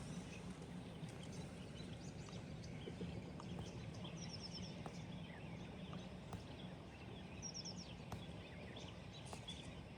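Faint outdoor ambience: a steady low rush, which sounds like a creek running, with scattered small bird chirps. Two quick runs of high bird notes come about four and seven and a half seconds in.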